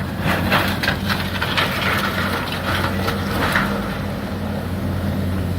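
Diesel excavator engine running steadily under load, with irregular crunching and clattering of wood and debris over the first few seconds as the burned building is torn apart.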